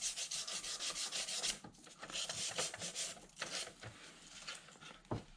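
Sandpaper rubbed by hand over the painted body of an RC scale Jeep Cherokee, wearing through the paint for a faded patina: quick scraping strokes about five a second at first, then slower, scattered strokes that stop near the end.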